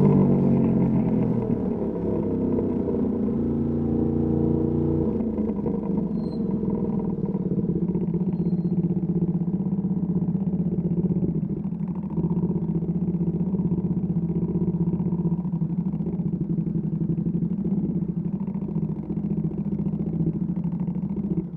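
Ducati Panigale V2S V-twin through a Termignoni exhaust, revs dropping over the first couple of seconds, then running steadily at low revs with a rough, lumpy note.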